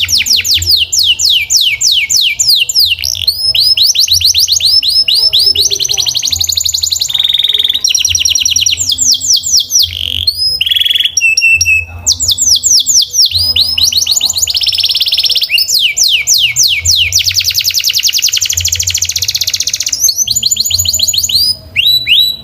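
Domestic canary singing rapid rolling trills: runs of fast, evenly repeated high notes that switch to a new pattern every second or two, with short breaks about eight and eleven seconds in. It ends with a few clipped notes.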